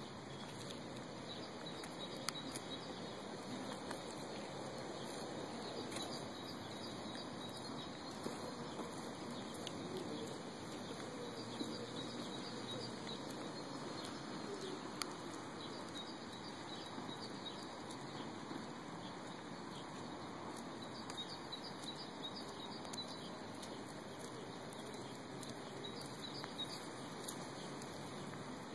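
Steady outdoor background noise with small birds chirping faintly now and then, and a few sharp clicks scattered through it.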